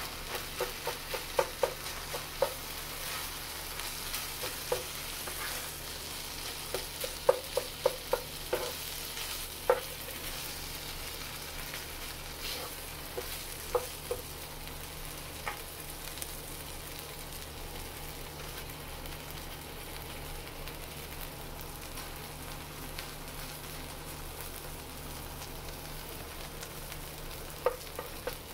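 Shaved chicken and cheese sizzling steadily on a Presto electric griddle, with the spatula chopping and tapping against the griddle surface in clusters of quick clicks.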